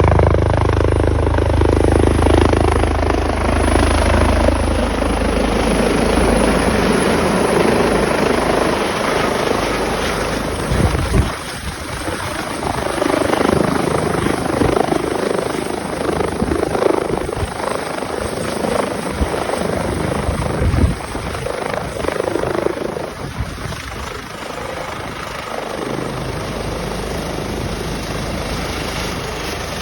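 Airbus H145 helicopter landing: rotor and turbine engines running loud, with a thin high turbine whine over them. The deep low rotor sound is strongest at first and thins out after about six seconds, and the sound eases a little toward steadier running near the end.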